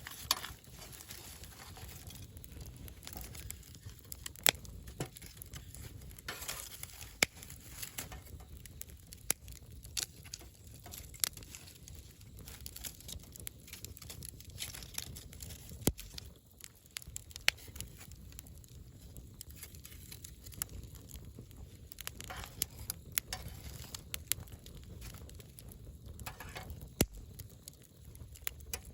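Wood campfire burning: irregular sharp crackles and pops, a few of them much louder than the rest, over a low steady rumble of the flames.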